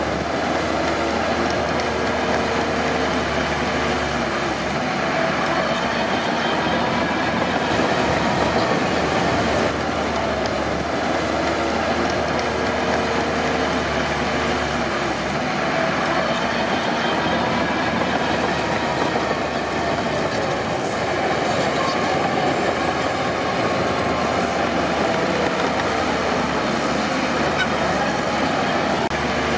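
Crawler bulldozer at work: diesel engine running under load with the clatter of its steel tracks, a steady din with a faint wavering whine.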